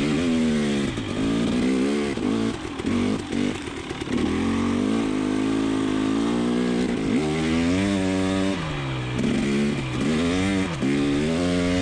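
KTM 300 XC TPI single-cylinder two-stroke dirt bike engine, ridden with the throttle worked on and off, its pitch repeatedly rising and falling.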